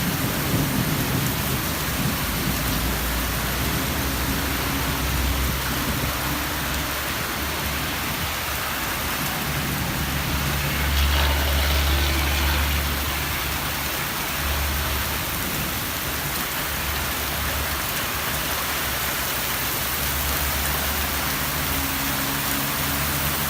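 Steady rain pouring down in a summer storm, drumming on surfaces, with a low rumble underneath that swells about eleven seconds in.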